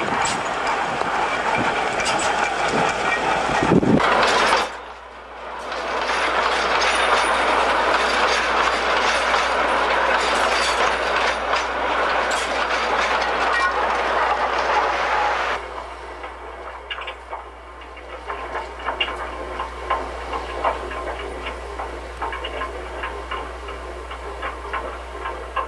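Diesel train with passenger cars rolling along the track, a steady rumble with wheels clicking over the rail joints. The sound dips sharply about five seconds in, then from about two-thirds of the way through turns quieter, with the separate clicks standing out more.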